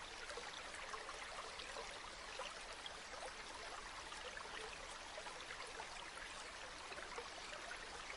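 A river flowing, a steady babble of running water.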